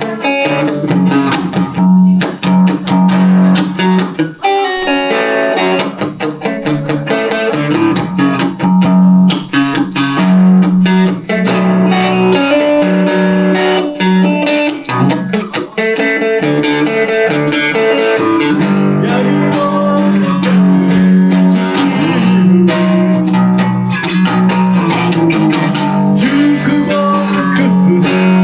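Electric guitar, a Van Zandt Telecaster played through a Roland JC-120 amp, playing an instrumental passage: quick picked notes over sustained low notes.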